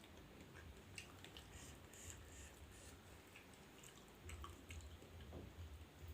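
Faint wet chewing and small mouth clicks of someone eating, over a low hum that grows a little stronger near the end.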